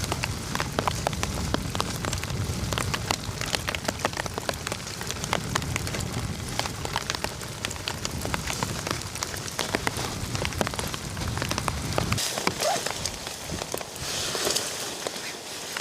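Steady rain with many separate drops tapping close by. About twelve seconds in, the low rumble beneath it drops away and the rain sounds lighter and hissier.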